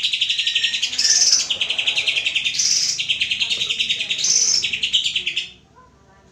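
Cucak ijo (green leafbird) singing a fast chattering song: runs of rapidly repeated notes broken by higher phrases, stopping about a second before the end.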